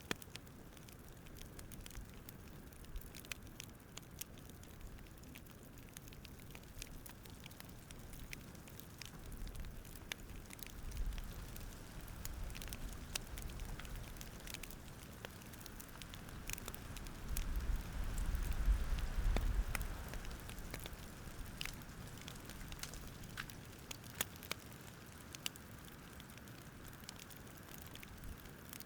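Campfire crackling with scattered sharp pops. A low rumble swells up twice, more strongly about two-thirds of the way through.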